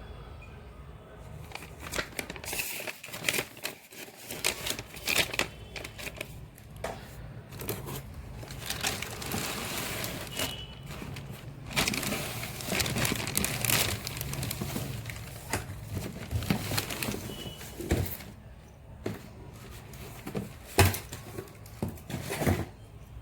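Plastic and paper packaging crinkling and rustling as it is handled and pulled off during unboxing, with irregular clicks and knocks, busiest in the middle.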